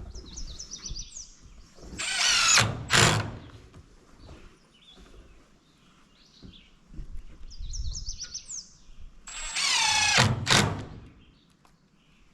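Power drill run in two short bursts, its pitch falling each time as the motor spins down after the trigger is let go. A bird chirps quick high trills in between.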